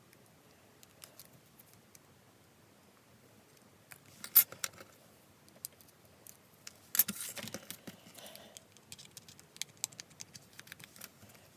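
Metal cutting dies and card stock being handled on a craft table: scattered light clicks and rustles, with a sharp clatter about four seconds in and a longer rattling clatter about seven seconds in.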